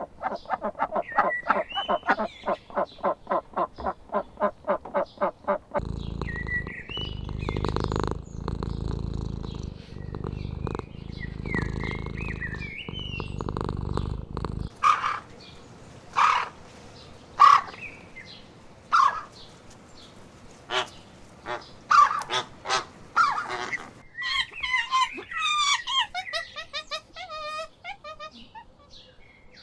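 A run of bird calls in several different stretches. First comes a fast series of regular calls, about five a second. Then there are calls over a low rumble, then separate sharp calls, and near the end quick warbling calls.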